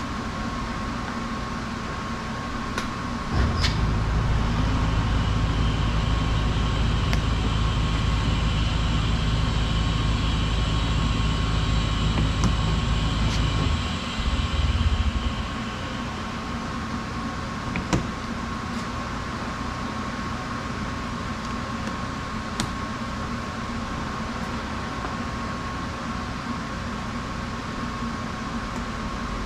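A machine motor runs steadily with a low hum for about ten seconds, starting a few seconds in and stopping about halfway through, over a steady background hum. A few light clicks and taps.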